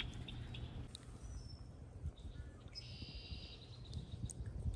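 Birds chirping, with a longer trilling song about three seconds in, over a steady low rumble.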